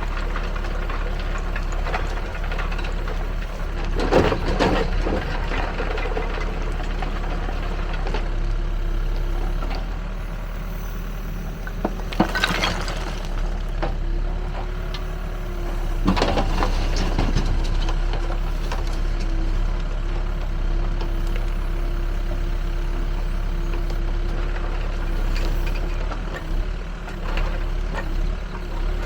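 Backhoe loader's diesel engine running steadily while the screening bucket works soil and rubble. There are a few louder surges of noise, and a steady whine joins about halfway through.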